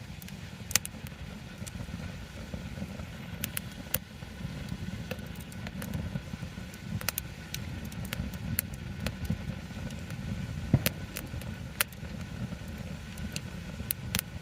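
Wood campfire crackling, with irregular sharp pops and snaps of burning wood over a steady low rumble.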